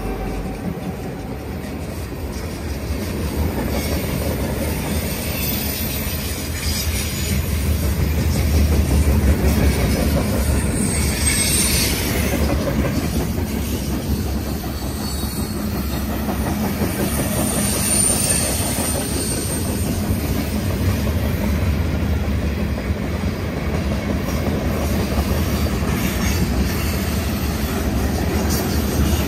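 Union Pacific freight train's gondolas and covered hoppers rolling past at speed: a steady rumble of steel wheels on rail with rhythmic clatter over the joints, and now and then a faint high wheel squeal.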